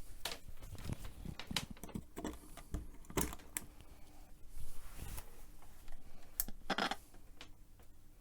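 Scattered sharp clicks and knocks with light rubbing in between, as a small radio is handled and wiped clean.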